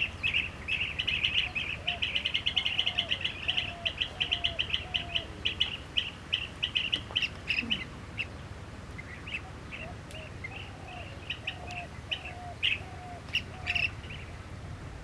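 Blue-tailed bee-eaters calling: rapid rolling, trilled chirps, thick for the first half and thinning to scattered calls later. A second bird gives a lower, repeated call about twice a second.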